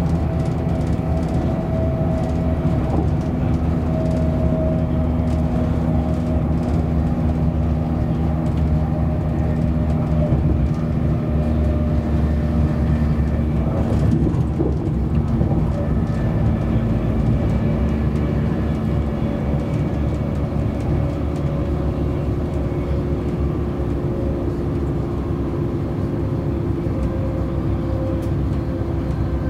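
Steady interior running noise of a Virgin Trains Class 390 Pendolino electric train travelling at speed, heard from inside the first-class coach: a low, even rumble with a few faint steady hums.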